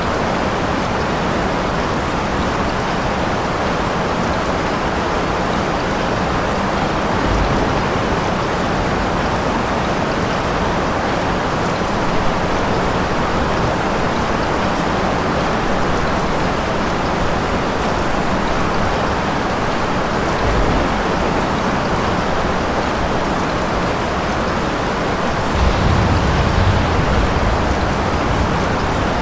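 Steady heavy rain, an even rushing patter without a break. Near the end a low rumble of thunder swells for a few seconds, and two brief low thuds come earlier.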